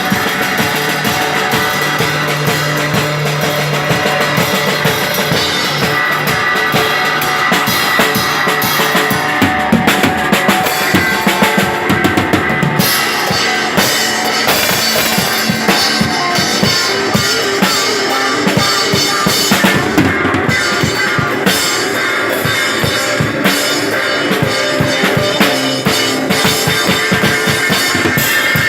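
Rock band playing live: a drum kit drives the music with bass drum and snare hits under sustained guitar.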